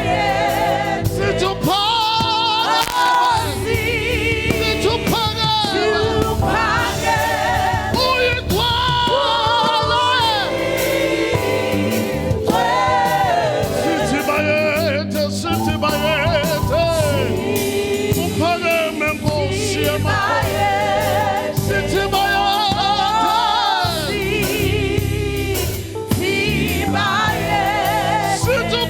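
A church choir and congregation singing a Zulu gospel praise song together, many voices in harmony with a wavering vibrato.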